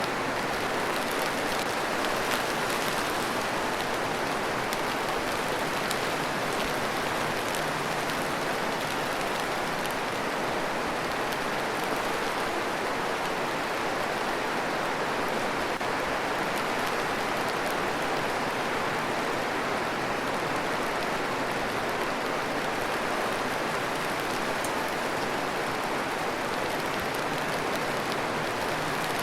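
Steady rain falling, an even hiss with fine drop ticks on top.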